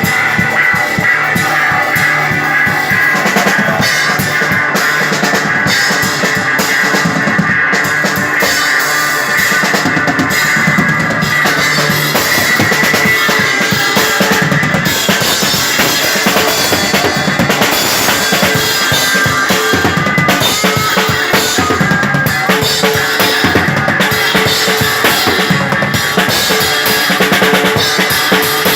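Live psychedelic rock played by a drum kit and electric guitar: an instrumental passage with the kick and snare driving under held guitar notes, and no singing.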